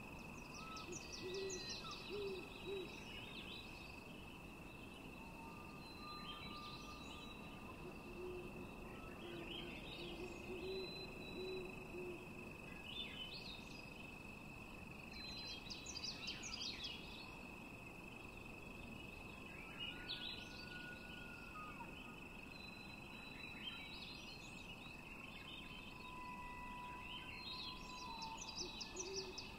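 Birds calling: clusters of high chirps every few seconds and a few short low calls, over a steady high-pitched tone.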